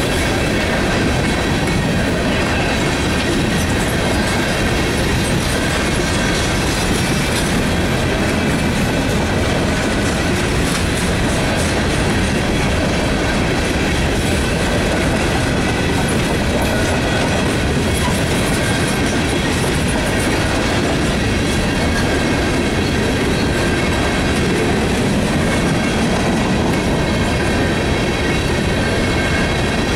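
Loaded coal train's hopper cars rolling past: a steady rumble and clatter of steel wheels on the rails, with thin high steady tones of wheel squeal over it.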